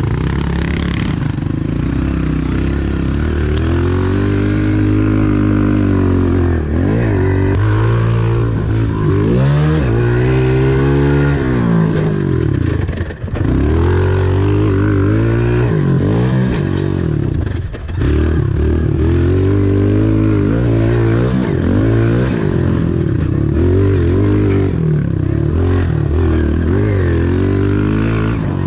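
Honda CRF125 pit bike's single-cylinder four-stroke engine being ridden, its note rising and falling many times as the throttle is opened and closed. The engine note dips sharply twice, about 13 and 18 seconds in.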